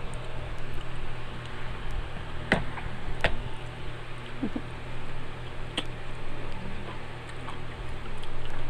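Close-miked eating sounds of mango being chewed, with a few sharp mouth clicks over a steady low hum.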